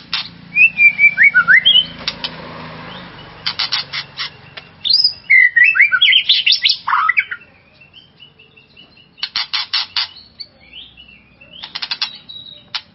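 White-rumped shama (murai batu) singing: loud, varied whistled phrases that slide up and down, broken by several fast rattling trains of sharp clicking notes.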